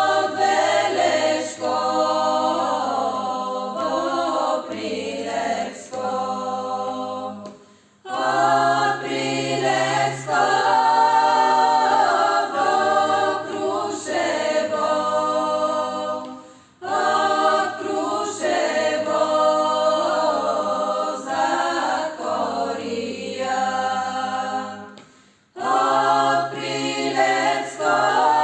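A choir singing a song unaccompanied, in long phrases of about eight seconds each with a brief breath between them, over a low held note.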